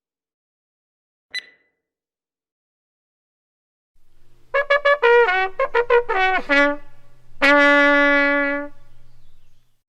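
A short ding about a second in, then a trumpet-like brass sound effect: a quick run of short notes that slide downward in pitch, ending on one long held low note.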